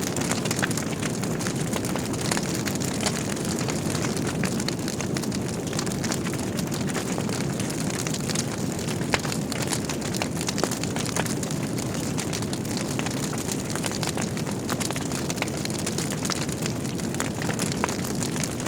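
Wood logs burning in a fireplace: a steady low rush of flame with continual small crackles and pops, one louder pop about nine seconds in.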